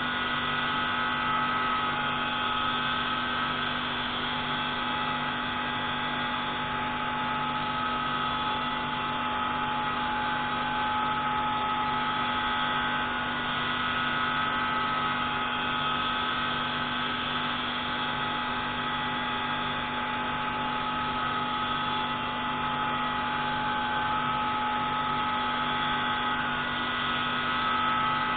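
Pneumatic grinding tool running steadily while grinding the intake valve of a MAK 601C marine diesel engine: an even mechanical hum with a few fixed tones and a faint regular throb underneath.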